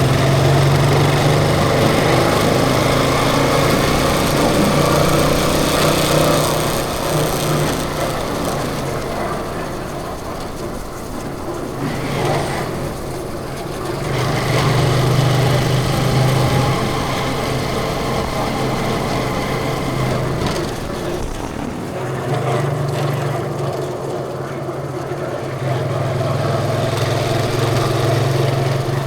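A motorcycle engine running while being ridden, its note swelling and easing several times as the throttle is opened and closed. Wind rushes past the microphone throughout.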